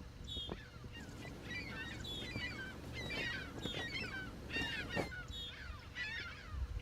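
A large flock of geese honking, with many short calls overlapping continuously, over a steady low rumble.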